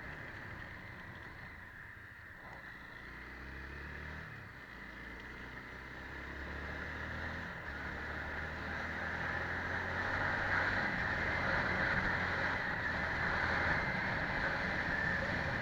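Scania 111 truck's diesel engine running while driving, with road noise, growing louder toward the end.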